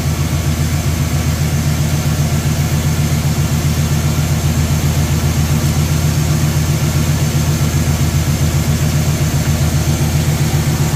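1979 Chevrolet Caprice's engine idling steadily with its new electric radiator fans running, switched on by the temperature switch as the engine warms to running temperature during a test run.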